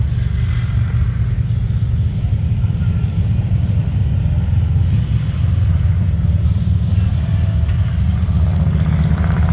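Steady low rumble of motorcycle engines running.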